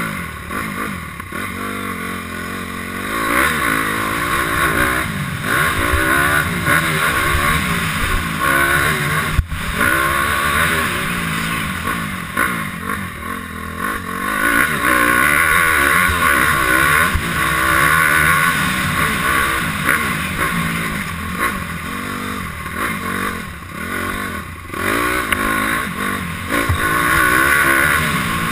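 Honda CRF250R's 250 cc single-cylinder four-stroke engine under riding load, its pitch rising and falling again and again as the bike accelerates, shifts and rolls off the throttle. A single sharp knock comes about nine and a half seconds in.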